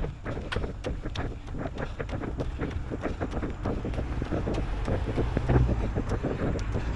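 A runner's footsteps at a steady stride of about three to four a second, with wind rumbling on the microphone; the rumble grows a little louder toward the end.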